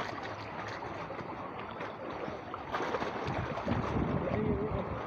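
Water and wind noise on a small boat at sea, a steady wash that turns into heavier low rumbling buffeting about three seconds in.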